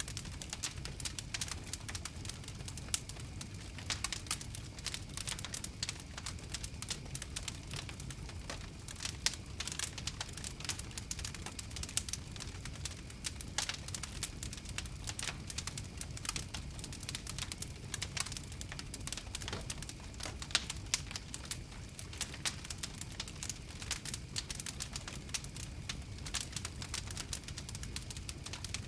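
Campfire crackling: many irregular sharp pops and snaps over a steady low rumble of the flames.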